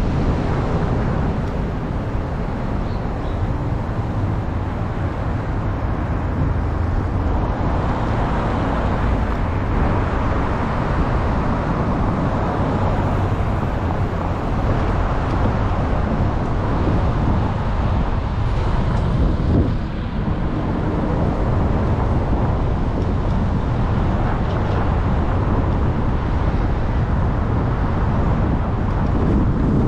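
Steady road and wind noise from a car being driven.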